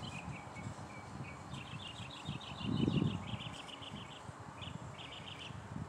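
Songbirds chirping in quick runs of short high notes, with a low rumble underneath that swells to its loudest about three seconds in.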